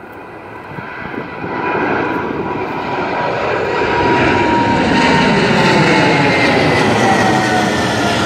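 Jet airliner taking off, its engine noise building over the first few seconds and then holding loud, with a high engine whine that slowly drops in pitch as the plane passes.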